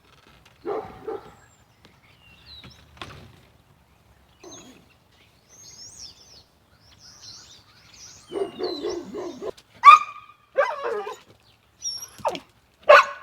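Birds chirping, with a dog barking several times, loudest about ten and thirteen seconds in.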